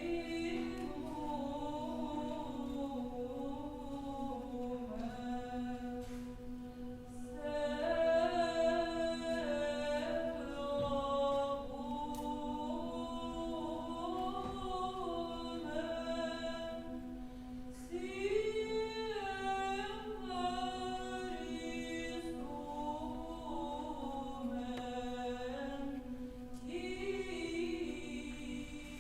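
An unaccompanied vocal ensemble singing an Old Russian melody over a steady held drone note. The melody moves in phrases, with short breaks about a quarter and a half of the way through.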